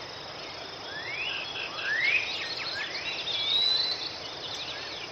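Wild birds singing: several rising whistled notes and short trills, the loudest about two seconds in and a longer high whistle near the end, over a steady outdoor hiss.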